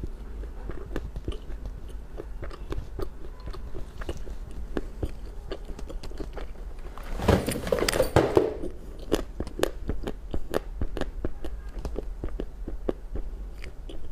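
Eating: chewing and biting with many small crunchy clicks, and a louder, longer crunch about seven seconds in.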